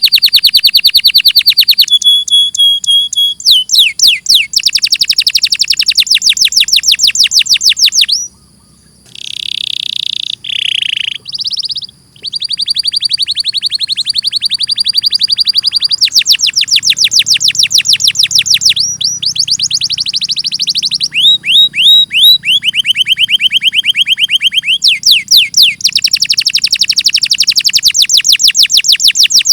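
Domestic canary singing: high-pitched, loud song made of rapid trills of repeated notes, each phrase at its own pitch and speed. The song breaks off briefly about eight seconds in, gives a few short notes, then resumes.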